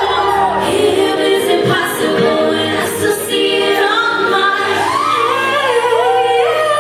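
Female pop vocal group singing live in harmony, several voices with vibrato holding and sliding between notes.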